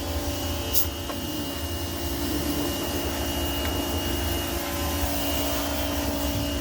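A motor-driven machine running with a steady high whine over a rushing hiss, with a light click about a second in.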